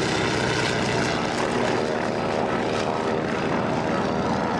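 Propeller airplane engine running steadily at a constant pitch.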